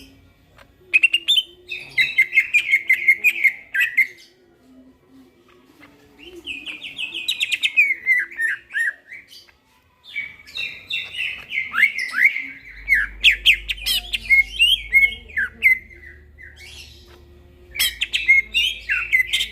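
Cucak ijo (green leafbird) singing in four fast bouts of varied chattering and warbling phrases with sharp clicks, broken by short pauses.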